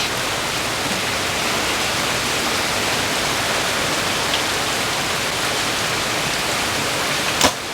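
Steady, heavy rain falling, an even hiss with no let-up. A single sharp snap sounds near the end.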